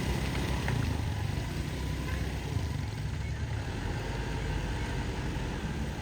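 Heavy truck engine running steadily, a low even engine sound with no change in pitch.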